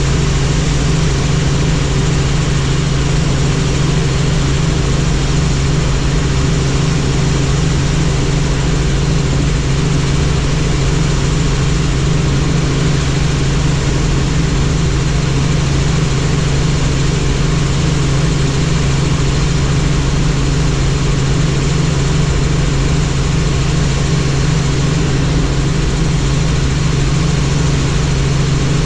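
Helicopter in flight: a loud, steady drone of rotor and engine with a rapid, even pulse from the rotor blades.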